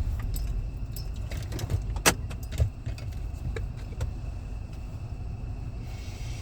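Low road rumble inside a moving vehicle's cabin, with scattered light clicks and rattles and one sharp click about two seconds in.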